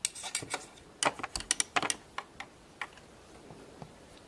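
Light plastic clicks and taps from a Play-Doh popsicle mold and tool being handled while the excess dough is trimmed off. The clicks come in a quick run over the first two seconds, then only a few more.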